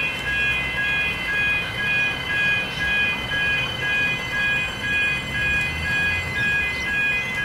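Railway level crossing warning bells ringing in an even, repeating rhythm, each strike a clear ringing tone.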